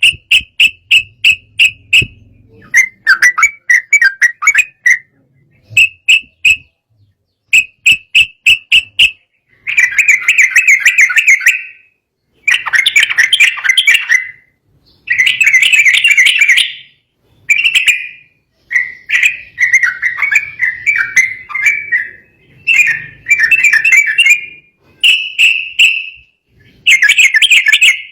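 Yellow-vented bulbul (trucukan) singing loudly and excitedly: bursts of quick, bubbling whistled phrases, each a second or two long, repeated with short pauses. This is the agitated song that bird keepers use to provoke rival birds into singing.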